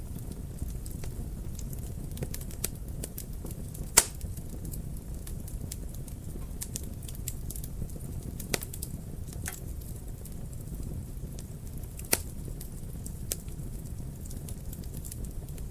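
Wood fire burning in a fireplace: a steady low rush of flames under irregular crackles and snaps, with two louder pops about four and twelve seconds in.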